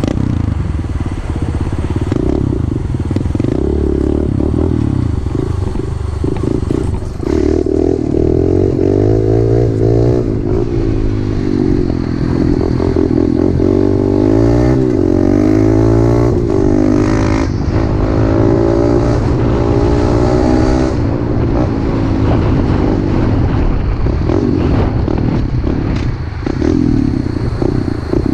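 Pit bike engine running under way, its pitch rising and falling again and again as the throttle is opened and closed.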